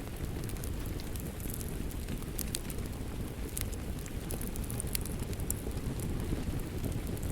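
Wood fire crackling: scattered sharp pops and snaps over a steady low rumble of flame.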